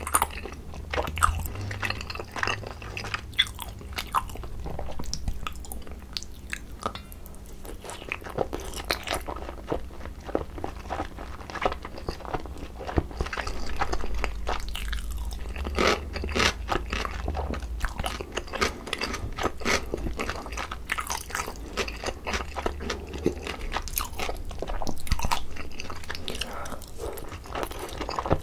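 Close-miked chewing of boneless sauced grilled chicken and pickled radish cubes: a continuous run of wet mouth clicks, smacks and bites, with no pauses.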